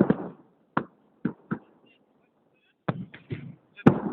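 Fireworks salute exploding: a dense run of crackling bangs dies away, a few single sharp bangs follow, and a fresh volley of bangs and crackles begins near the end.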